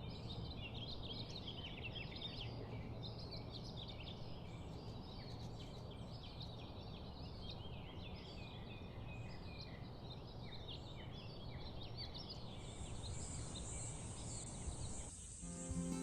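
Small birds chirping in many short calls over a steady outdoor background noise; about three-quarters of the way through, a steady high-pitched hum joins in. The sound cuts off suddenly near the end.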